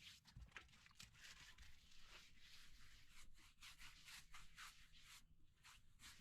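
Faint, irregular scraping and rubbing, a quick run of short scratchy strokes.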